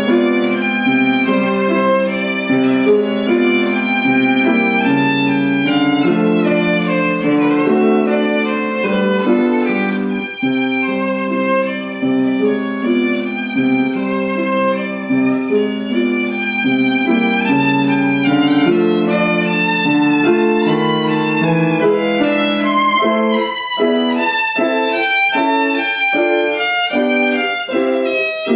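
A violin playing a classical melody, note after note. Near the end the notes turn short and detached.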